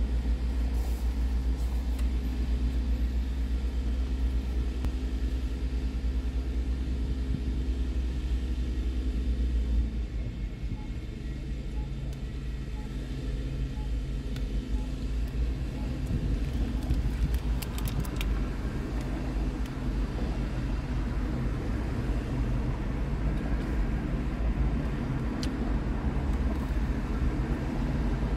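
A car engine runs, heard from inside the cabin as a steady low rumble that shifts in pitch about ten seconds in. A few crisp cracks of a chocolate shell being bitten come about two-thirds of the way through.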